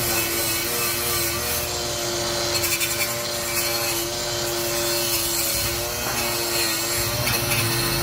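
A power tool running steadily while abrading a workpiece: a rough, continuous scraping over a steady motor hum.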